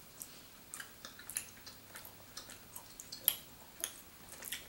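Two people chewing soft plum jelly candy: faint, irregular wet mouth clicks and smacks, a few to the second, the loudest about three seconds in.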